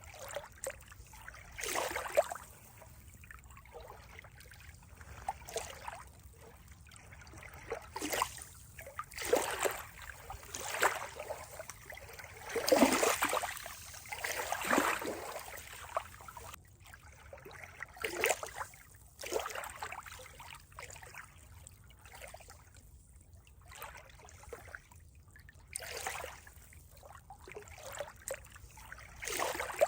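Water trickling and splashing in irregular surges every second or two, the strongest about halfway through.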